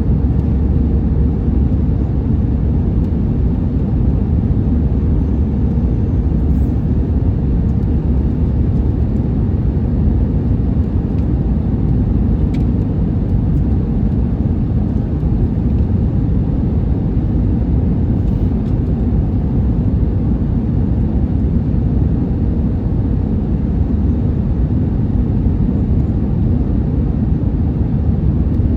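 Steady low rumble of an Airbus A321neo airliner heard from inside the cabin: engine and airflow noise with no change in level.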